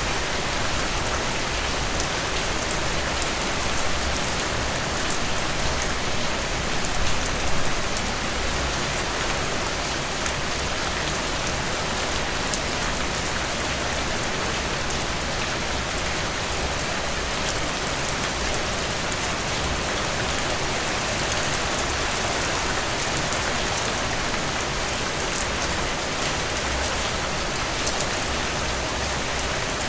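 Steady rainfall: a dense, even hiss of rain with fine scattered drop ticks, swelling briefly about seven seconds in.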